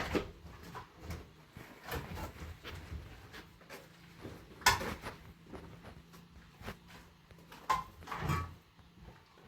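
Irregular knocks and clatter, the sharpest about halfway through, over a faint low hum.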